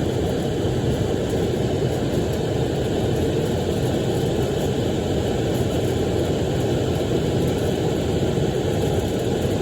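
Amana 90% gas furnace's circulating blower running steadily, a continuous rush of air with a low hum. The fan is being called with no call for heat, so the blower runs without the burner lit.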